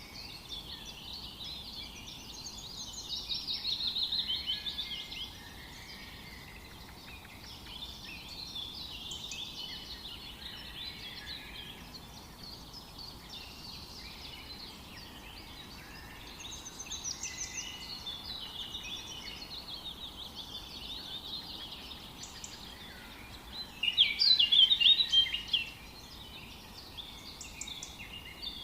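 A chorus of several forest birds singing and chirping over one another. One bird's phrase swells louder about four seconds in. A burst of rapid, loud notes comes near the end.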